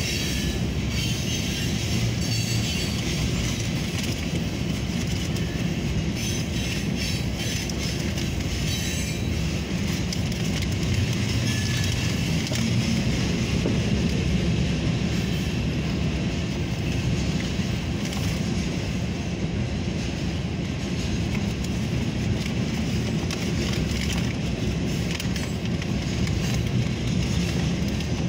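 Freight train of covered hopper cars rolling past: a steady rumble and rattle of steel wheels on the rails.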